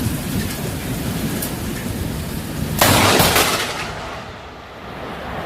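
Steady rumbling noise with a sudden loud crash about three seconds in, lasting about a second, after which the rumble drops for a moment.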